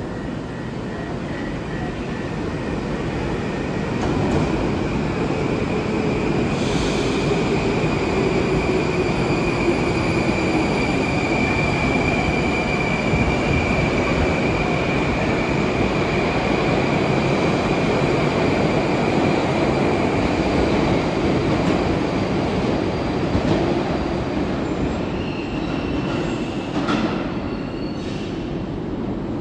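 A Moscow Metro train running through the station: heavy rumble and wheel noise with a high steady wheel squeal and a motor whine that slowly falls in pitch. It swells about four seconds in and eases off near the end, with a few sharp knocks.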